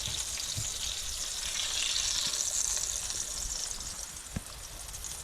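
Food sizzling in a hot pan: a steady frying hiss that swells and eases. A single light click comes a little past four seconds in.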